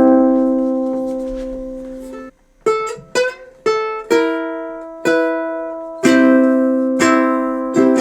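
Donner DUC4E concert electro-acoustic ukulele played through an amplifier via its pickup, the pickup working. A strummed chord rings out and is damped about two seconds in, followed by a few quick strums, then fuller chords strummed about once a second near the end.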